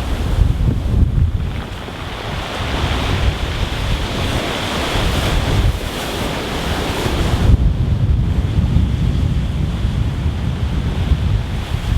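Rough sea breaking on a pebble beach, waves surging in and washing back over the stones, with wind buffeting the microphone as a low rumble.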